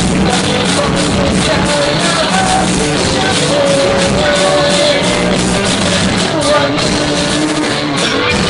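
A rock band playing live, a dense mix of guitars and drums, with a long held note a few seconds in.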